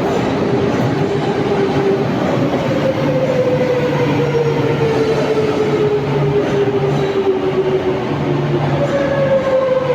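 Madrid Metro train running, with a loud steady rumble and a whine that falls slowly in pitch, then a second falling whine begins near the end.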